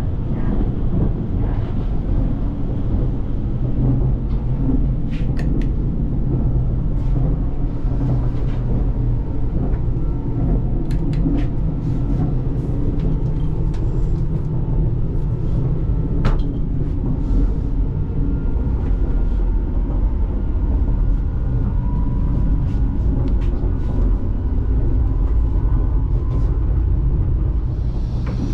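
KTX-EUM high-speed train running at speed: a steady low rumble of ride noise with scattered light clicks and creaks.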